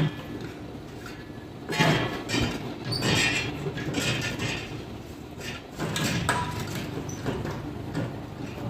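Irregular knocks, clatter and scraping of tools and metal parts being handled, with the loudest knocks about two, three and six seconds in.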